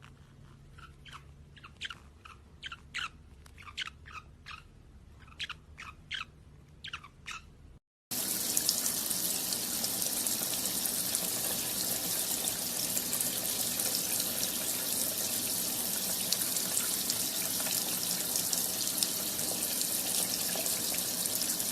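A small bird chirps in a quick series of short, sharp calls. Then, after a cut, a water tap runs steadily into a sink.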